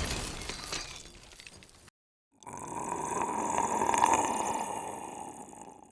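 Film sound effects: a loud crash with shattering that dies away over about two seconds, then after a short silence a noisy roar with a steady tone in it that swells and fades.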